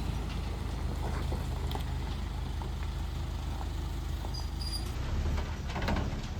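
Engine running steadily with a low drone, with a few faint clicks and a short rustling burst near the end.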